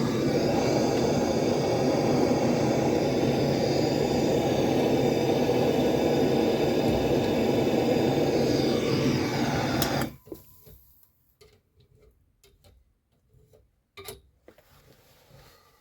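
A steady, loud mechanical running noise that cuts off suddenly about ten seconds in, followed by a few light clicks and knocks.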